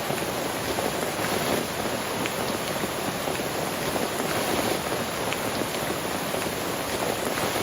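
Steady rain falling, with a few faint sharper ticks of single drops striking here and there.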